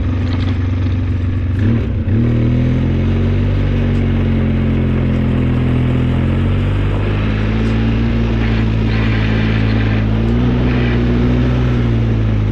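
Engine of a snow-plowing vehicle running steadily, revving up about two seconds in and then holding its speed with small rises and falls.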